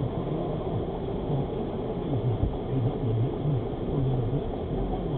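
Car engine and road rumble heard from inside the cabin through a dash-cam microphone, with a low pitch that wavers up and down. There is a short low knock about two and a half seconds in.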